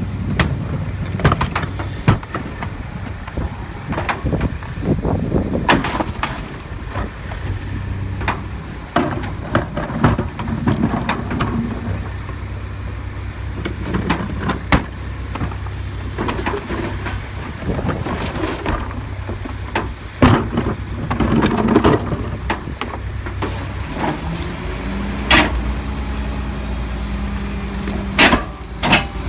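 Garbage truck engine running, with repeated sharp bangs and clanks throughout. About two-thirds of the way in, the engine note steps up and holds steady.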